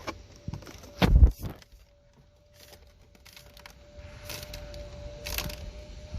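Handling noises inside a car while a wire is fed behind plastic dashboard trim: a loud thump with clicks about a second in, then light clicks and rustles.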